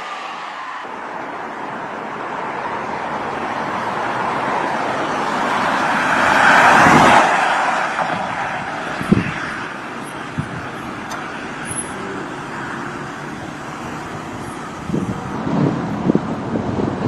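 Road vehicle noise: a car passing close, its rush swelling to a peak about seven seconds in and then fading. Scattered thumps follow near the end.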